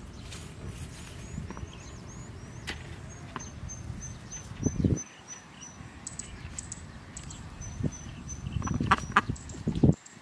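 A bird giving two runs of short, high chirps, about four a second, over a low rumble. There is a thud about halfway through, and a few more thuds and rustles near the end.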